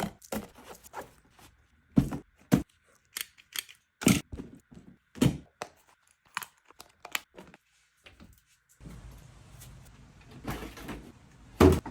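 A string of separate sharp knocks and clicks, a dozen or more spaced irregularly. From about nine seconds in, a steady low noise starts underneath them.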